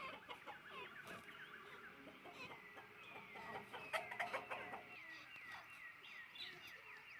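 Chickens clucking and peeping, with a run of high, falling chirps about twice a second in the second half and a few sharp knocks about four seconds in.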